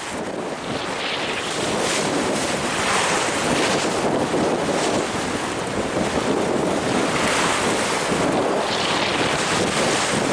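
Wind buffeting the microphone and waves rushing and splashing against a sailboat under way in rough seas, swelling and easing every couple of seconds.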